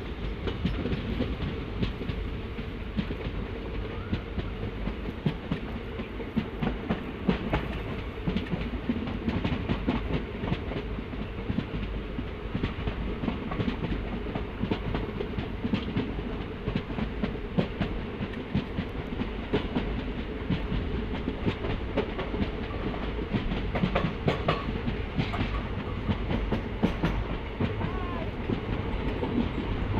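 Running noise of an Indian Railways passenger coach, heard from on board: a steady rumble with the wheels clattering over the rail joints.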